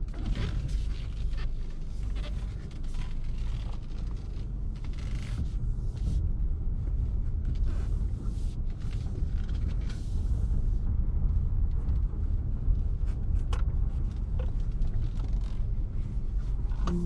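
Low, steady rumble of a Lexus RX 200t's 2.0-litre turbocharged four-cylinder and its tyres on the move, with a few clicks and rustles in the first few seconds. It grows a little louder about two-thirds of the way through.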